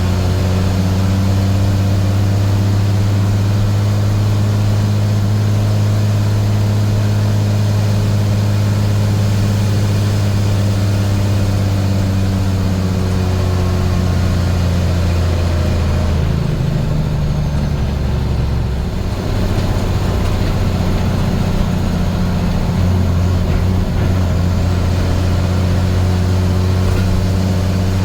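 Turbo-diesel engine of a 1987 International S1900 dump truck, the inline-six DT466, running steadily under way. About sixteen seconds in, its note drops and changes for a few seconds, then settles back to a steady hum.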